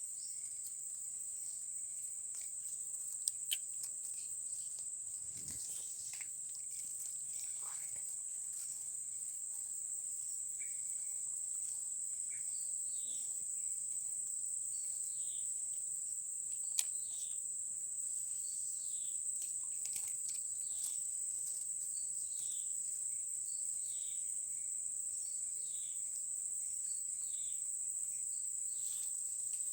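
Insects, crickets by the sound, keeping up a steady high-pitched chorus. Faint short chirping calls repeat about once a second through the second half, with a few scattered clicks.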